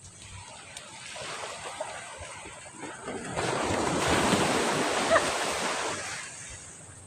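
Ocean wave breaking and washing up the shore: a rush of surf that builds over a few seconds, peaks, then fades away.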